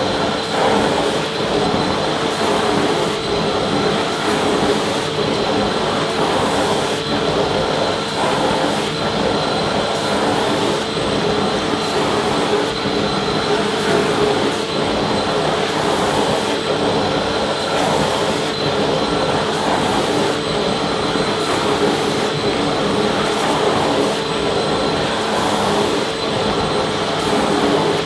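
Vacuum cleaner running steadily: an even rush of air with steady motor tones over it.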